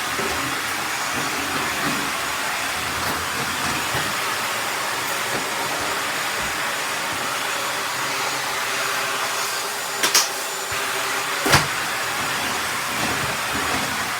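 Bissell 3-in-1 stick vacuum running steadily on a floor, a constant whooshing hiss. Two sharp cracks sound about ten seconds in and again a second and a half later.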